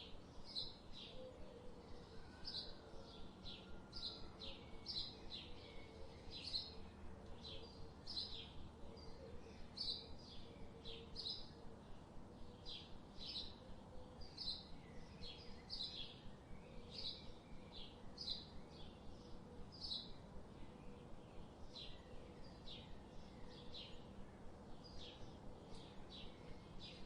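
Small birds chirping: short high chirps repeated about twice a second.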